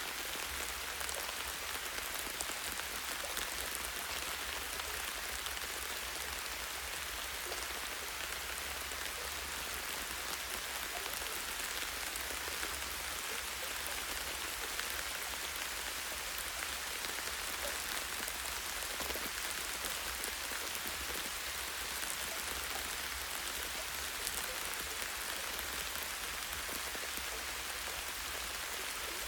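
Light rain falling steadily on a tree branch: an even hiss of many fine drops, without pause.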